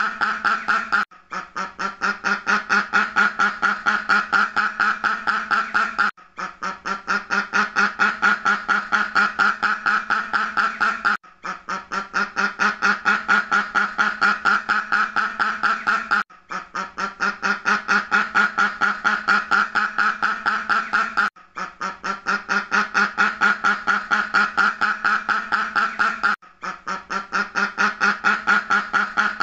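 Duck quacking in a fast, continuous run of quacks. A few-second loop repeats, with a short break about every five seconds.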